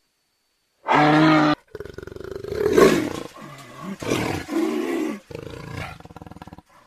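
An animal calling: a short, steady-pitched call about a second in, then a long, rough, pulsing call that swells and fades several times.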